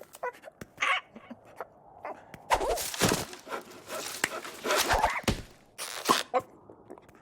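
Cartoon sound effects: a run of short knocks and clicks, with heavier thuds about two and a half to three seconds in and again around five seconds in, mixed with brief animal-like grunts and squawks from the characters.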